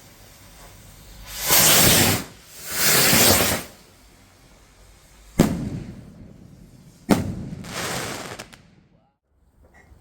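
Fireworks: two loud rushing swells of hissing noise, each about a second long, then two sharp bangs about a second and a half apart, each trailing off in a fading rumble.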